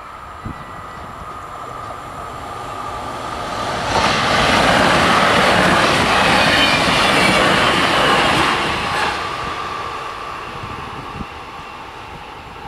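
SJ X55 electric multiple unit passing over a level crossing. Its noise builds over a couple of seconds, stays at its loudest for about five seconds, then fades away. Behind it the level-crossing bells keep up a steady ringing.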